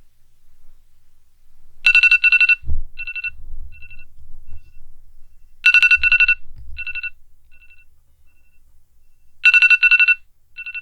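Mobile phone ringtone: a quick electronic trill followed by fading single beeps, heard three times about four seconds apart.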